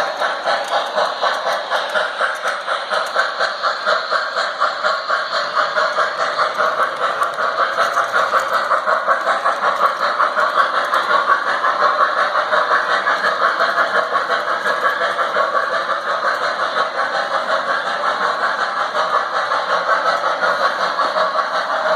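Model train running on its track: a steady mechanical hum with a fast, even pulsing of about four beats a second.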